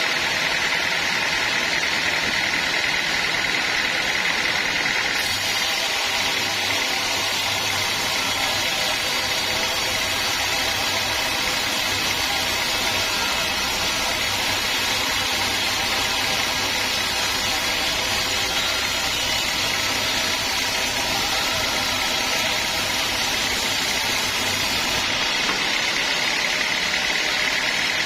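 Sawmill machinery running steadily, with a deeper hum joining in about five seconds in and dropping away near the end.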